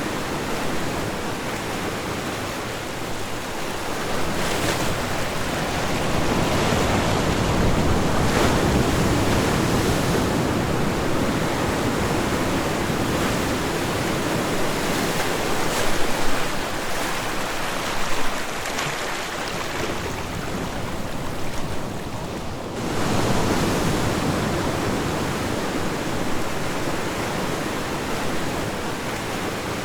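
Ocean waves breaking and washing up on a beach, a steady rush of surf that swells and eases over several seconds, with a short lull a little past two-thirds of the way through.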